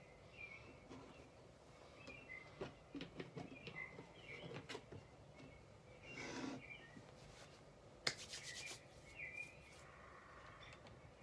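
Faint note-taking sounds: a pen scratching on paper, small taps, a paper rustle about six seconds in and a quick run of clicks about eight seconds in. Small birds chirp again and again in the background.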